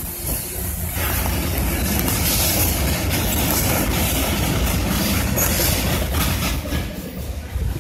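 Freight cars of a BNSF train rolling past: a steady noise of steel wheels on the rails, heaviest in the low end, easing a little near the end.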